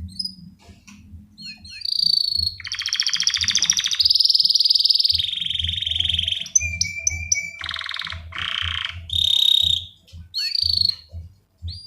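Male canary singing a long, varied song of rapid rolling trills and clear whistled notes, with quick falling notes at the start and end. This is the loud 'ngerek' song of a male in breeding condition calling to a female.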